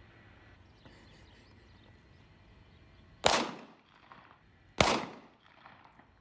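Two gunshots about a second and a half apart, each with a short echoing tail.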